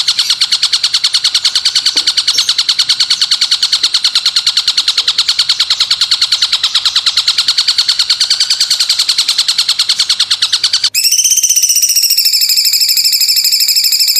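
Recorded songbird trills for training cage birds. A fast, very even trill of about seven notes a second plays until an abrupt cut about eleven seconds in. A different, higher and more buzzing trill follows.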